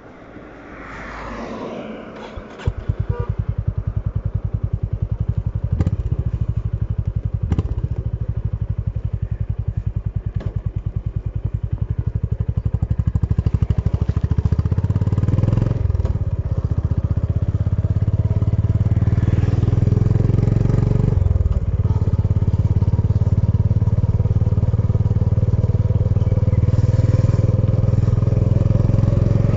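Honda H'ness CB350's single-cylinder engine starts about three seconds in and idles with an even, rapid beat. From about halfway through it runs louder and steadier as the bike rides off, with brief dips near 16 and 21 seconds that fit gear changes.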